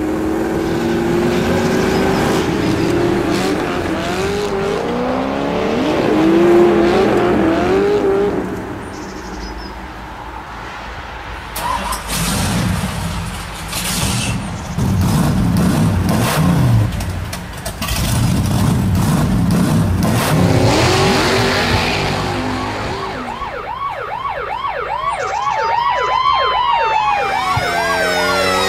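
Dubbed vehicle sound effects: engines running and revving, with some tyre squeal and a few sharp knocks around the middle. Near the end a wail that rises and falls over and over, like a siren, comes in.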